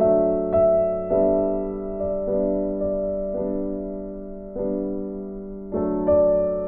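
Soft background piano music, notes and chords struck slowly, each ringing out and fading.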